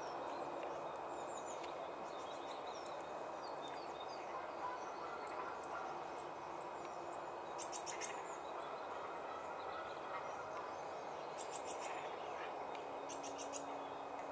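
Small wild birds calling: scattered high chirps, with short rapid trills about halfway through and again near the end, over a steady low background rush.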